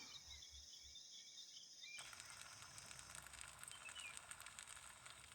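Very faint forest ambience: a steady high insect hum with a few short bird chirps.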